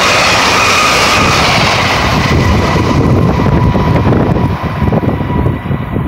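SEPTA Silverliner V electric commuter train passing at speed: a loud rush of wheel and air noise with a faint steady whine, dying away after about two seconds as the train pulls off. It is followed by gusty wind buffeting the microphone.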